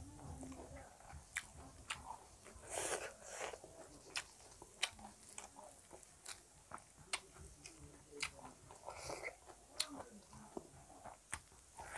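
Close-miked chewing with a steady run of sharp, wet mouth clicks and smacks, and a longer rustling patch about three seconds in.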